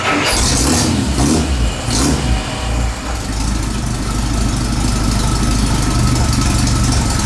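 Car engine catching and starting after several tries, revved unevenly up and down for the first two or three seconds, then settling into a steady idle.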